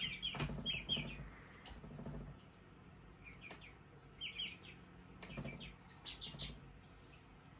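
Young chickens peeping: faint, short high chirps in scattered little runs.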